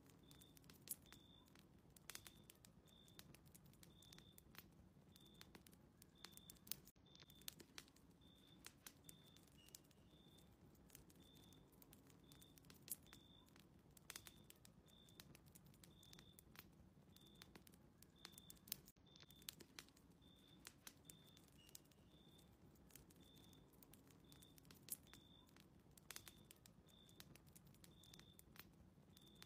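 Faint crackling of a wood fire in a fireplace, with scattered sharp pops, under a short high chirp that repeats about one and a half times a second.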